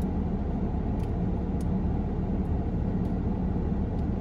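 Steady low hum of a car's idling engine heard from inside the closed cabin, with a few faint light clicks.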